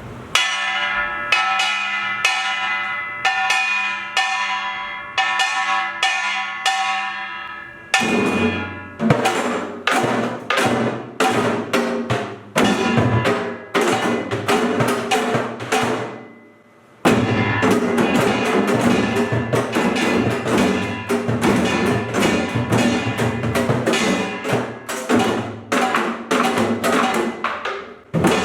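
Korean pungmul percussion ensemble playing: a kkwaenggwari small gong opens alone with ringing strokes, then about eight seconds in the buk and janggu drums join in a dense, driving rhythm. The ensemble breaks off briefly just past the middle and comes back in at full strength.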